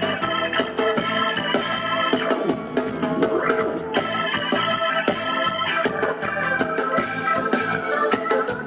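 Live reggae band playing an instrumental passage: sustained organ-like keyboard chords that change every few seconds, over a steady drum beat.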